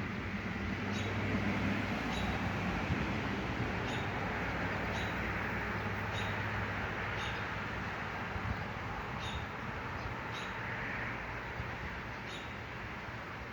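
A small bird repeating short, high chirps, roughly one a second, over a steady low background rumble.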